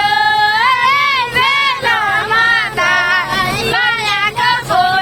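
High-pitched female singing voice, a song sung in long, wavering and gliding notes with short breaks between phrases.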